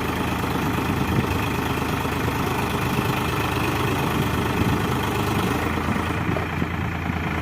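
Powertrac Euro 50 tractor's diesel engine running steadily at a low, even speed.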